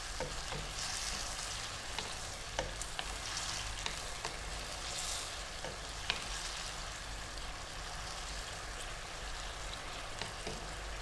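Pork belly sizzling and bubbling in a shallow oyster-sauce liquid in a nonstick wok, a steady hiss with scattered pops and clicks; a wooden spatula stirs through the pan at the start. This is the braising stage, the pork cooking down in a little water with the sauce.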